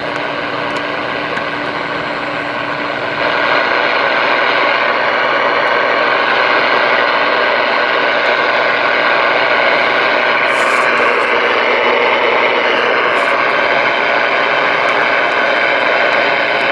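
Steady static hiss from a CB radio receiver's speaker with the channel open, getting louder about three seconds in, with a few faint clicks.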